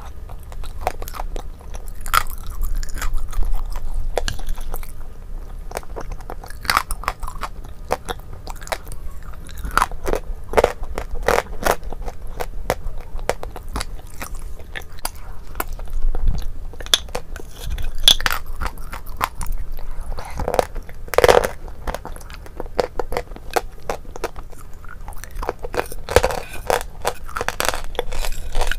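Close-miked eating of a creamy dessert with crunchy pieces: chewing and crunching with many sharp little clicks, a few louder crunches standing out.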